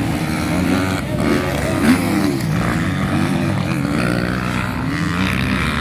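Several motocross motorcycle engines revving on a race track, their pitches rising and falling and overlapping as the riders open and close the throttle.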